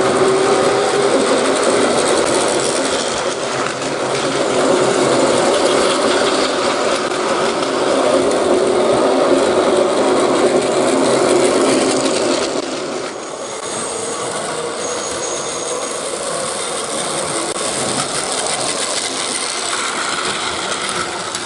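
A train running along its track: a steady mechanical rumble and clatter that drops somewhat in level about halfway through.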